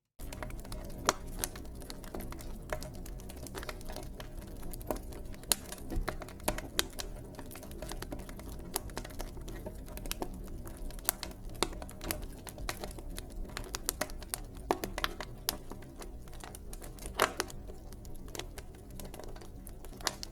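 Wood fire crackling in a fireplace: frequent irregular sharp pops and snaps over a steady low rumble of flames.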